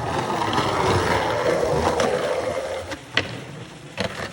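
Skateboard wheels rolling fast over rough concrete with a steady rushing noise, broken by sharp clacks of the board about two seconds in, again at about three seconds (the loudest), and just after four seconds.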